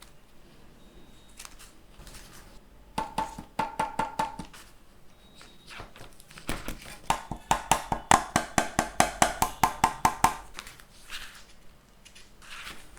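Rapid ratchet-like plastic clicks from a Redgear Trident USB gaming headset being handled and adjusted, about five or six a second, each with a short ringing note. A short run comes first, then a longer run of about four seconds, followed by faint handling rustles.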